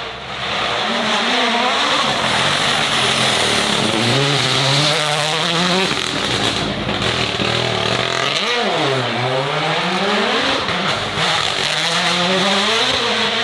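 Racing car engine revving hard, its pitch climbing and falling several times, with a sharp drop and fast climb about eight seconds in, over a loud hiss of tyre and exhaust noise.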